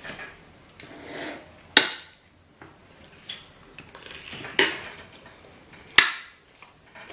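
Cutlery clinking and scraping on a dish of rice and stew during eating, with four sharp clinks, the loudest about two seconds in and again near the end.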